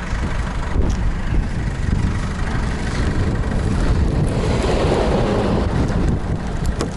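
GAZelle Next van on the move: steady engine and road noise with wind noise.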